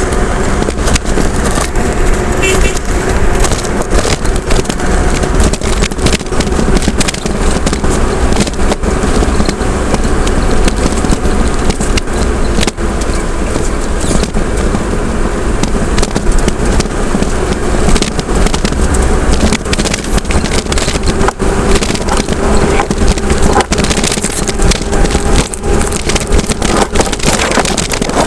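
A vehicle on the move: steady engine hum and road rumble, with frequent small rattles and knocks.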